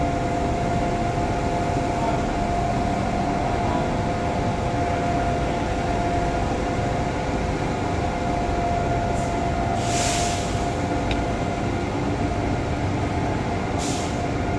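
Steady mechanical drone with a constant hum that holds the same pitch throughout, and a short rustle about ten seconds in.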